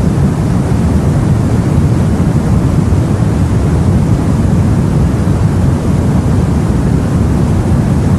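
Steady, deep rumble of sea and wind heard aboard a boat, even throughout with no separate wave crashes.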